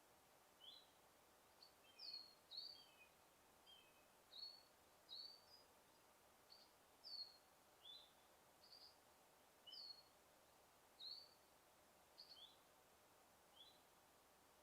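Forest birds chirping: short, high chirps roughly once a second, over a faint steady background hiss.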